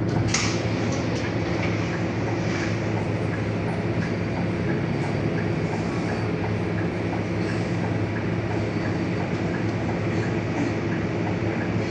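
Scania K230UB single-deck city bus under way, its diesel engine running with a steady drone. A brief sharp rattle comes about half a second in, and faint ticks repeat about twice a second.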